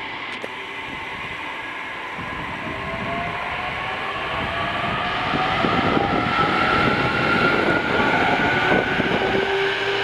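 JR Kyushu 817 series electric train pulling away. Its inverter-driven traction motors whine in several tones that rise steadily in pitch as it accelerates, with the running noise growing louder over the first half and then holding.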